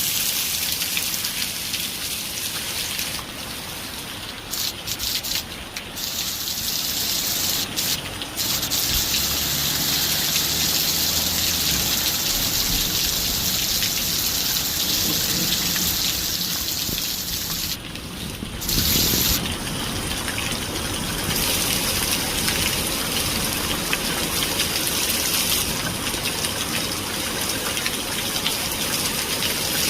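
Rain falling in a steady, dense hiss, with a few brief dips in the high hiss.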